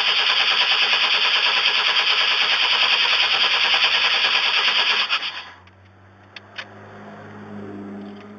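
1994 Chevrolet Astro's engine cranking rapidly on the starter for about five seconds without catching, then the starter stops. This is a no-start that the owner traced to a failing ignition control module under the distributor.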